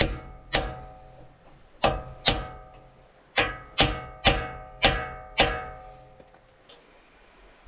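Hammer blows on a seal driver, tapping an axle seal evenly into its bore: about nine sharp, ringing metallic strikes, some in quick pairs, stopping about six seconds in.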